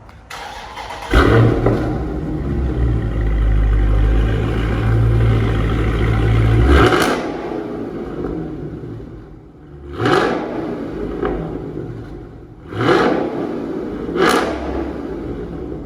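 A Dodge Charger Scat Pack's 392 HEMI V8, breathing through a Corsa Xtreme cat-back exhaust, fires up about a second in and holds a loud, steady fast idle; its owner calls the idle raspy. From about seven seconds in, the idle drops back and the engine is revved in short blips several times.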